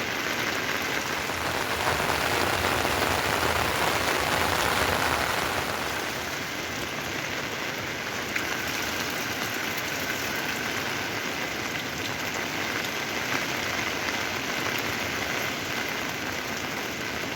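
Heavy rain falling steadily, a little louder for a few seconds near the start.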